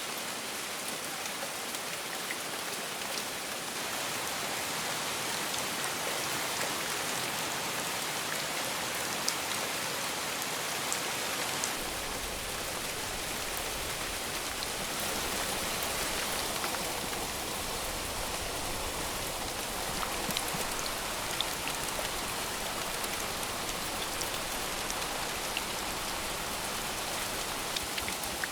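Steady heavy rain falling, with individual drops ticking sharply here and there. A low rumble joins underneath about twelve seconds in.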